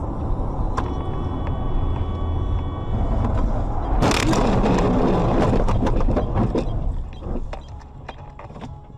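Dashcam recording of a vehicle's running engine and road rumble, then about four seconds in a sudden loud car collision: a crash impact with crunching that lasts a couple of seconds, followed by scattered clattering knocks of debris.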